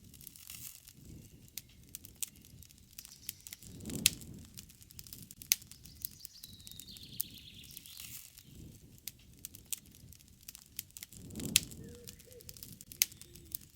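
Wood campfire crackling with many sharp pops, with two louder low rushes of flame, one about four seconds in and one near the end. A bird calls briefly in the middle.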